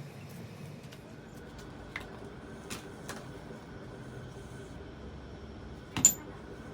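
Low steady workshop background with a few light knocks, then one sharp metallic clink about six seconds in, ringing briefly: metal tools or parts striking each other during work on a suspension control arm.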